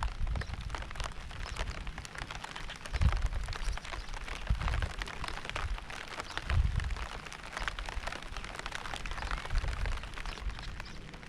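Steady rain, with dense separate drop impacts over a hiss. A low rumble swells up every couple of seconds underneath.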